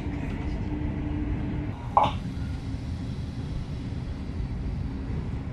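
Passenger train rumbling along, heard from inside the carriage, with a steady low hum under the track noise as it comes into a station. About two seconds in there is one brief, sharp sound that stands out above the rumble.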